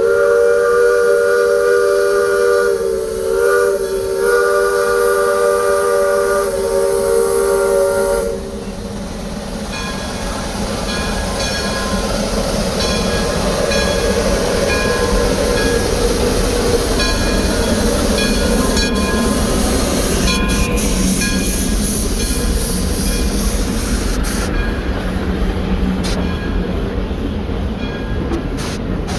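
A narrow-gauge steam locomotive's whistle blows one long chord for about eight seconds, bending briefly in pitch about three seconds in. The train then runs on with a steady rumble and hissing steam.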